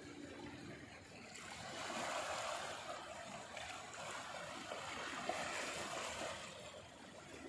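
Small sea waves washing up the beach: a soft wash that swells in about a second in, eases off, then swells again.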